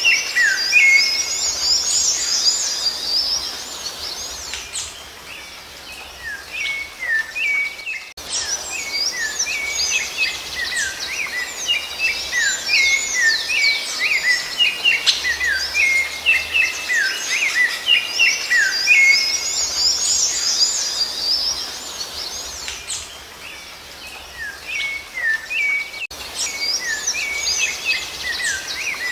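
Songbirds singing: a dense, busy twittering of many quick chirps and short falling whistles that swells and dies back in waves several times.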